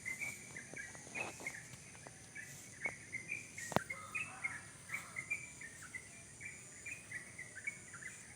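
Wild songbirds, which the owner calls cerok-cokan, calling in quick runs of short repeated chirps, with a steady high-pitched whine underneath and a single sharp click about halfway through.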